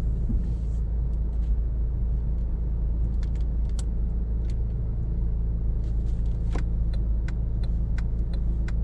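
Steady low rumble of a car heard from inside the cabin, with a few scattered light clicks and ticks in the second half.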